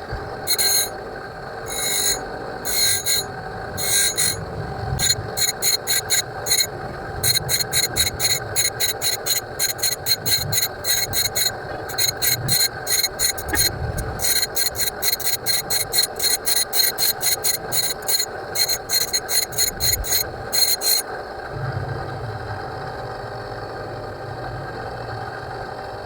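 A homemade scroll saw running, its small electric motor humming steadily. Over this come many short, high-pitched bursts of blade cutting, which stop about 21 seconds in while the motor keeps running, and the motor shuts off at the very end.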